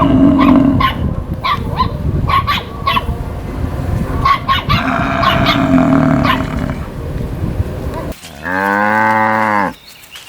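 Cow mooing: rough, noisy lowing with scattered clicks through most of it, then one clear, drawn-out moo about a second and a half long near the end, rising then falling in pitch.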